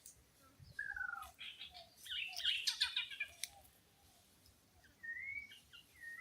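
Birds chirping and calling: a couple of short falling whistled calls about a second in, a dense burst of quick chirps in the middle, and two brief calls near the end.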